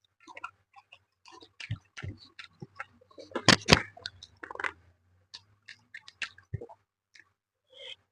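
Chewing and mouth sounds of someone eating fish with rice: irregular wet smacks and clicks, the loudest two sharp clicks about three and a half seconds in.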